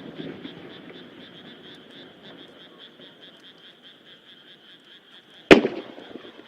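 A large aerial firework shell bursts with a single sharp boom about five and a half seconds in, followed by a short crackle as it dies away; the tail of an earlier burst fades at the start. Underneath, frogs keep up a steady, pulsing croaking chorus.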